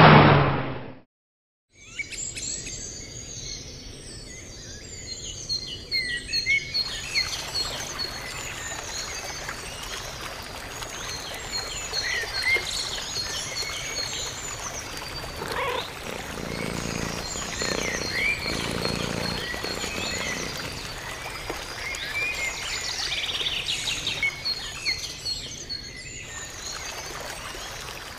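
Birds chirping and singing, with a rapid high trill repeating throughout and a few lower calls about two thirds of the way through. It comes in after about a second of silence.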